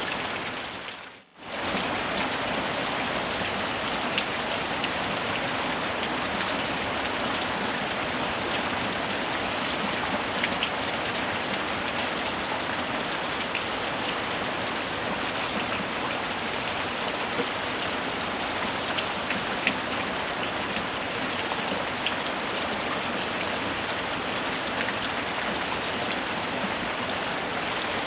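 Heavy rain drumming steadily on a tin roof, with scattered sharper drop ticks. About a second in it briefly fades out and comes straight back.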